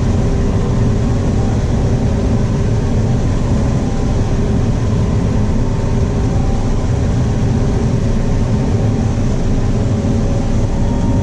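Combine harvester running steadily while combining corn with a six-row corn head, heard from inside the cab: a constant engine and machinery drone with a few faint steady whines above it.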